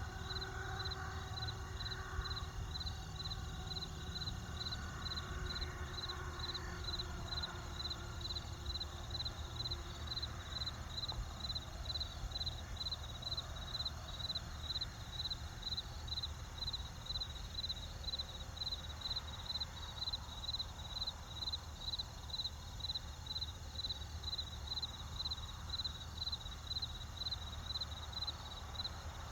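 A cricket chirping steadily at about two chirps a second, over a low steady rumble.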